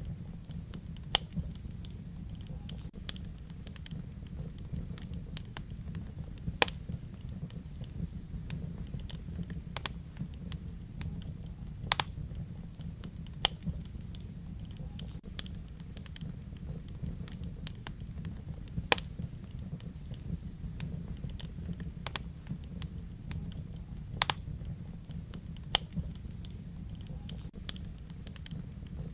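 Wood fire burning in a fireplace: a steady low rumble of flames with irregular sharp crackles and pops. About half a dozen pops are much louder than the rest.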